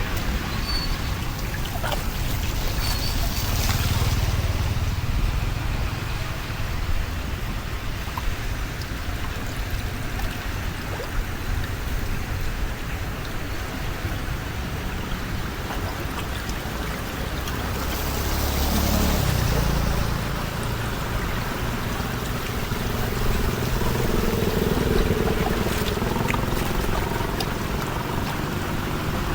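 Water pouring and trickling steadily through a drain, over a low rumble, with a faint steady hum coming in during the second half.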